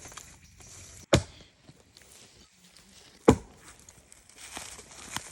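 Two sharp blows about two seconds apart: an axe chopping firewood.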